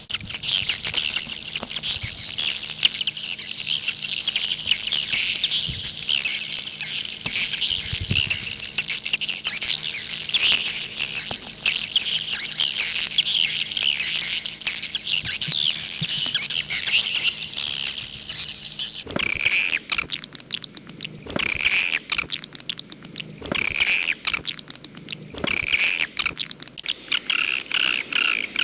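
Swiftlet lure call ('walet jaguar' sound): dense, overlapping twittering chirps with a faint steady low hum beneath. About two-thirds of the way through, the hum stops and the chirping changes to sparser chirps repeated in quick, even runs.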